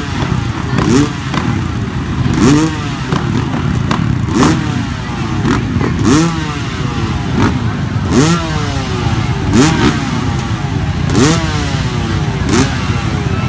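Dirt bike engines revving over and over. The pitch climbs sharply and falls away about every second and a half, over the steady running of other bikes.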